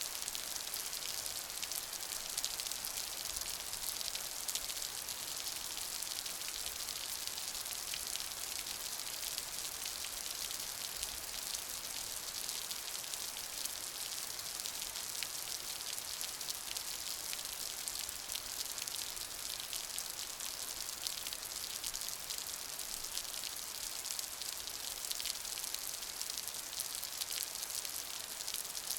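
Steady rain falling, a dense even hiss of many fine drop patters.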